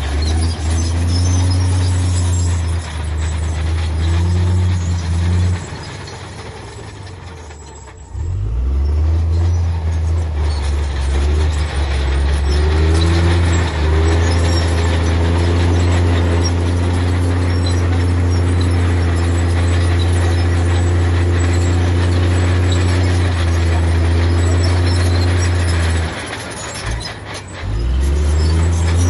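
Heavy diesel earthmoving machinery engine running hard and steady. It falls away about five seconds in, comes back strongly at about eight seconds, and dips briefly again near the end.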